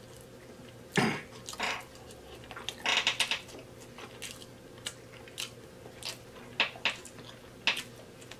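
Close-miked mouth sounds of a man eating seafood boil with his fingers: chewing with wet lip smacks and sharp clicks scattered through, the loudest about a second in and a cluster around three seconds in.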